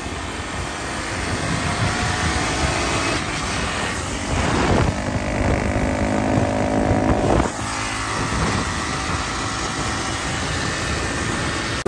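Dirt bike engine running, its pitch rising and falling as the throttle changes, over a steady rush of wind and road noise. Two louder swells come about four and seven seconds in.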